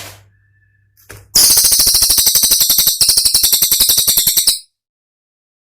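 Cililin songbird's rapid, harsh rattling trill, about a dozen sharp notes a second and very high-pitched, in two runs with a brief break between. It cuts off abruptly near the end, after a short faint whistle and a few clicks at the start.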